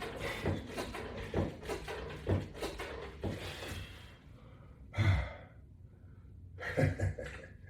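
A man breathing hard and sighing during resistance-band exercise. Short knocks come every half second or so for the first few seconds, and there are two louder exhalations about five and seven seconds in.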